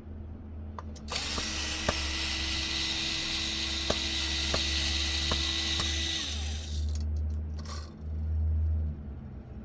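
Power screwdriver motor whirring, spinning up about a second in, running steadily for about five seconds with scattered clicks, then winding down, followed by a few short bursts. It is being used to drive screws while taking apart an Xbox Series X console.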